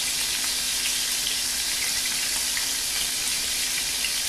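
Duck pieces frying in hot oil in a pan, their underside browning: a steady sizzle with small scattered crackles and pops.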